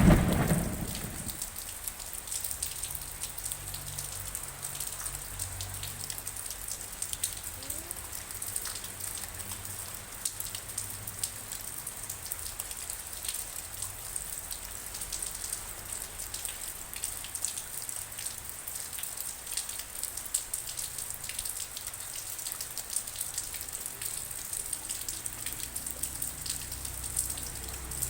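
Steady rain falling and dripping, with many small drop ticks over an even hiss. The tail of a loud thunder rumble dies away in the first second or so.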